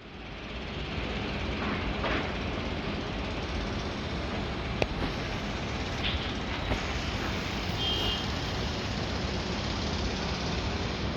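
Steady road-traffic noise of a city, with a sharp click about five seconds in and a brief high beep near eight seconds.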